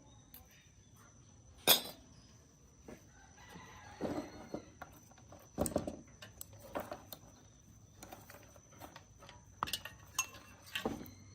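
Scattered sharp clicks and knocks, typical of hand work on metal parts, with short animal calls mixed in and a faint steady high-pitched whine running through.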